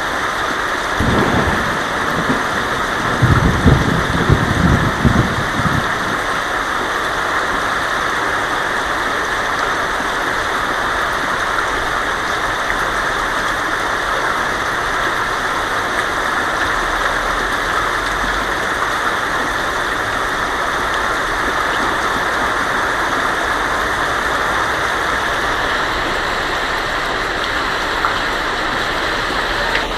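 Heavy rain drumming steadily on a tin roof, with a short rumble of thunder about a second in and a longer, louder rumble from about three to six seconds.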